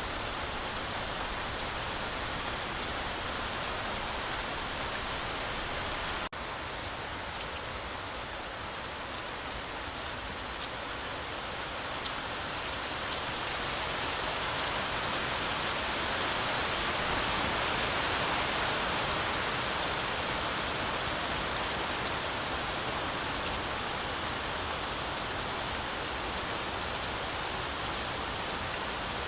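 Heavy rain falling steadily through a forest canopy, with a brief dropout about six seconds in and a gradual swell louder midway before easing again.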